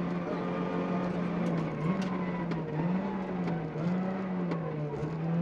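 Citroën Saxo VTS rally car's 1.6-litre 16-valve four-cylinder engine at speed, heard from inside the cabin. Its pitch jumps up and then sags several times in the second half, with scattered sharp ticks over it.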